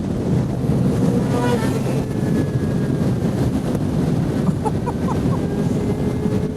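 Motorcycle engine running at a steady cruise under heavy wind rush on a helmet-mounted microphone while riding.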